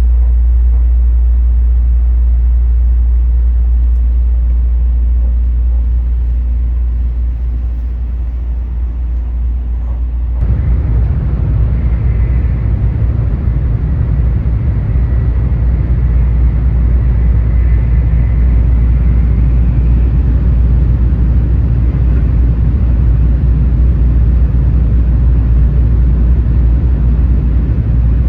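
Cabin noise of a Tokaido Shinkansen train running at speed: a loud, steady low rumble that abruptly turns louder and rougher about ten seconds in. A faint high whine follows for several seconds.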